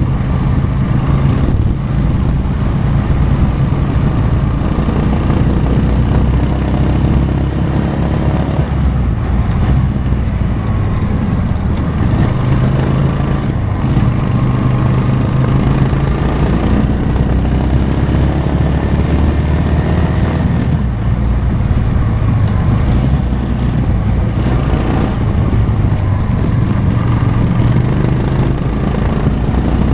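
Motorcycle engine running steadily while riding, its pitch rising and falling a few times with the throttle.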